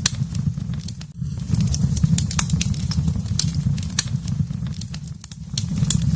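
Wood fire crackling in a fireplace: irregular sharp pops and snaps over a steady low rumble of the flames, easing off briefly about a second in and again near the end.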